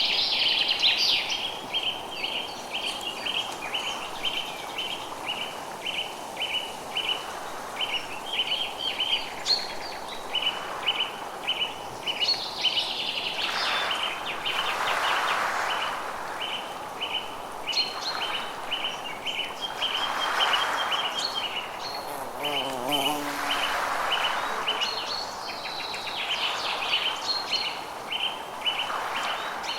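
Forest birds calling: a steady run of short high chirps, about three a second, with other birds' chirps over it and a few swells of rustling noise.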